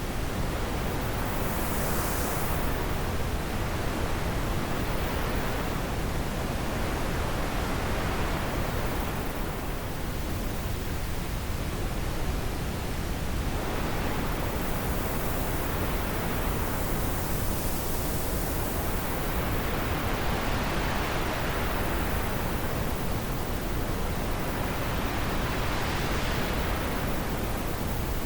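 Wind blowing, a dense even rush of noise that swells and eases in slow gusts every several seconds.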